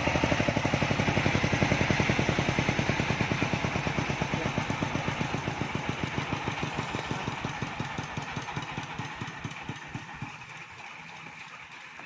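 An engine running with a fast, even chugging beat that fades gradually away, growing faint and uneven near the end.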